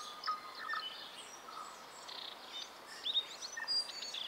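Birds singing and chirping, many short overlapping calls, over a steady outdoor background hiss.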